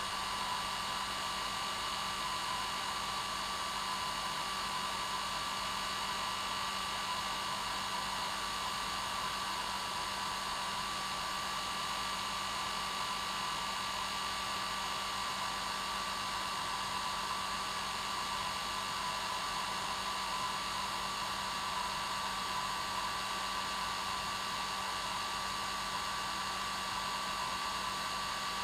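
Hair dryer running steadily on its normal setting, an even whooshing rush of air with a constant motor whine.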